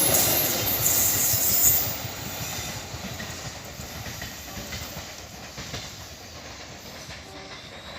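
A long train's wagons rolling by on the rails with a hissing, clattering wheel noise. The sound drops suddenly about two seconds in, then fades to a quieter rumble as the train moves away.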